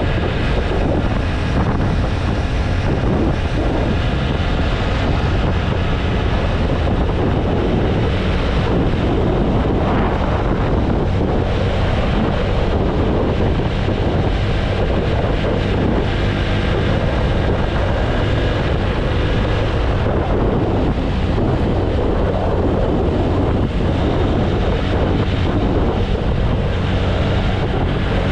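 Wind rushing steadily over the microphone of a TVS Apache RTR 160 4V motorcycle riding at steady road speed. Its single-cylinder engine drones underneath.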